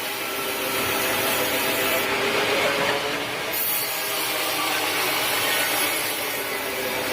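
A power saw cutting teak wood: a steady rasping cut with a steady multi-tone whine from the saw running beneath it.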